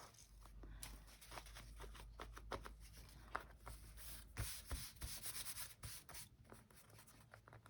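Faint rubbing of paper under the hand, with irregular small crackles and taps: glued magazine cutouts being pressed and smoothed down onto a gluebook page.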